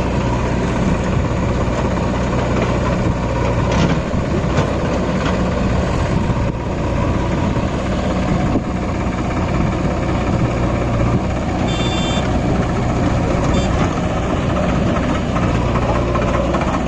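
Tractor diesel engine running steadily with a deep, even drone. A short high-pitched tone sounds briefly about twelve seconds in.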